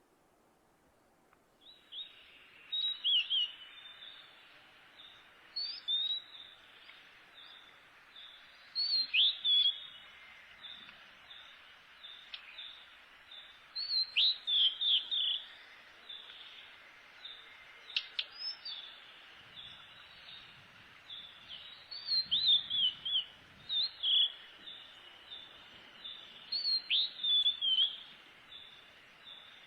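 A small songbird singing short phrases of quick, falling whistled notes, repeated every few seconds, over a steady high-pitched background hiss that comes in about two seconds in.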